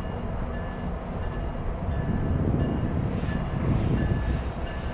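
GO Transit bilevel passenger coaches rolling past close by: a steady low rumble of wheels on rail, with faint short high squeaks coming and going.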